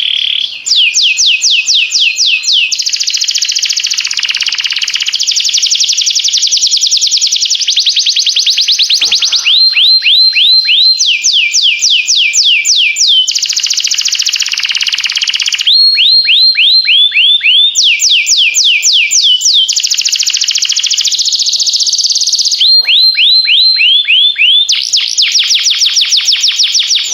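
Domestic canary singing a continuous song of rapid trills: runs of quick, evenly repeated downward-sweeping notes. It switches to a new trill every one to three seconds.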